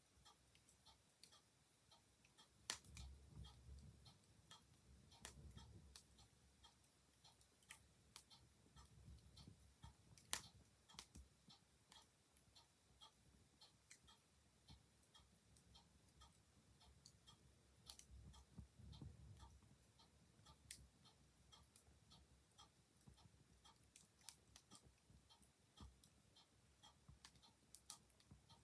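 Wood fire crackling quietly, with occasional sharp pops and stretches of soft low flame rumble, over the steady ticking of a clock.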